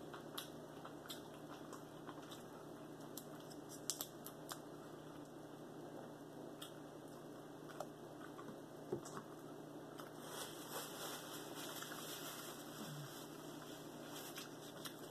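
Quiet eating sounds: chewing and small wet mouth clicks as barbecued meat is pulled apart and eaten by hand, over a steady low hum. Near the end comes a soft rustle of a paper napkin wiping the mouth.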